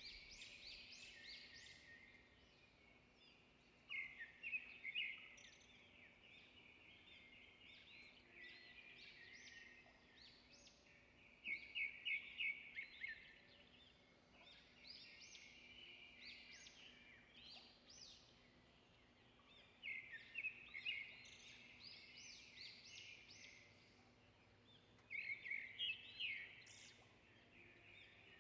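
Faint birdsong: small birds chirping and trilling, with louder bursts of rapid repeated notes every several seconds.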